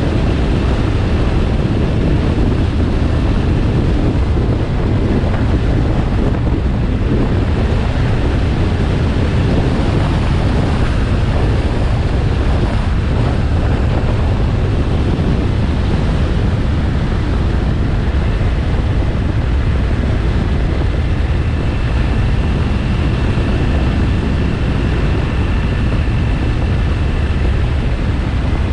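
Motorcycle riding at a steady speed: a steady low engine and road rumble with heavy wind buffeting on the microphone.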